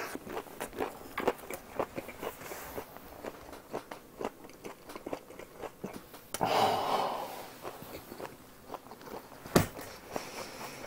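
Close-miked wet chewing and mouth clicks of someone eating cold-marinated pig's trotters (naengchae jokbal). A loud breath about six seconds in, and one sharp click near the end.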